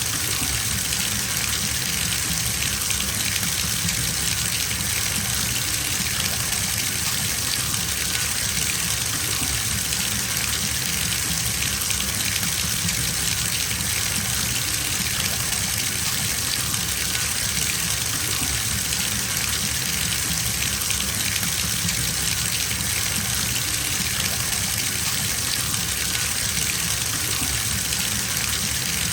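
Water running steadily from a tap into a filling bathtub, a constant gushing splash with no change.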